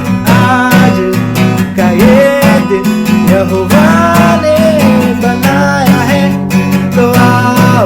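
Acoustic guitar strummed steadily, with a man singing a Hindi worship song over it.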